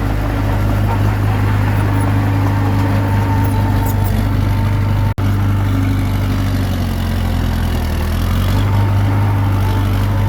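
Diesel engine of a Komatsu D21P crawler bulldozer running steadily at working speed. Its note sags slightly then picks up again about two-thirds of the way through, and the sound cuts out for an instant about halfway.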